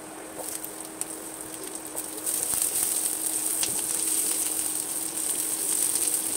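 Chopped garlic sizzling in hot oil in a nonstick frying pan, the sizzle growing louder about two seconds in as sliced onion goes in, with light clicks from a spatula stirring. A faint steady hum runs underneath.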